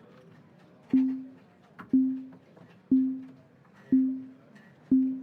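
Five short low pitched beeps, one a second, each struck sharply and dying away quickly: the live baccarat game's betting timer counting down the last seconds before bets close.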